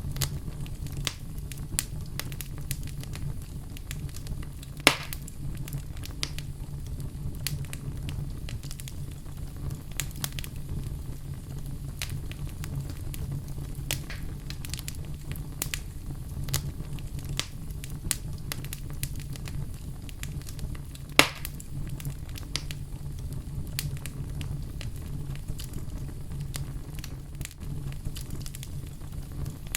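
Wood fire crackling steadily over a low rumble, with two sharper, louder pops, one about five seconds in and another about twenty-one seconds in.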